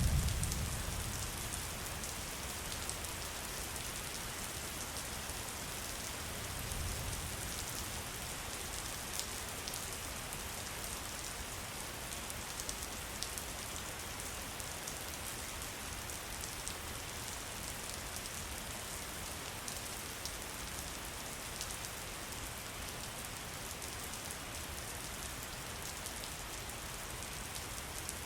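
Steady rain falling on a surface: an even hiss with fine drop ticks. A low rumble fades at the start, and another brief low rumble swells about seven seconds in.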